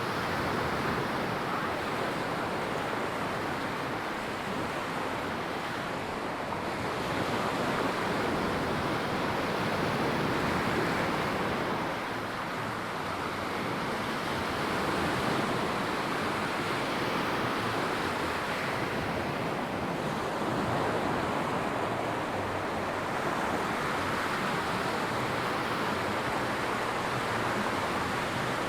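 Ocean surf breaking and washing up a sand beach: a continuous rushing that swells and eases every few seconds.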